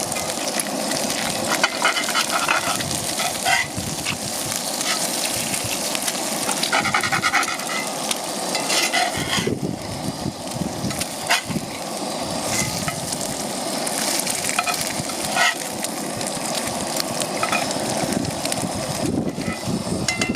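Eggs frying in bacon fat in a cast iron pan, sizzling steadily, with scattered pops and clicks.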